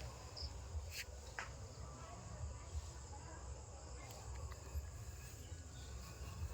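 Insects, crickets by their steady high-pitched chirring, with a low rumble underneath and a few faint clicks.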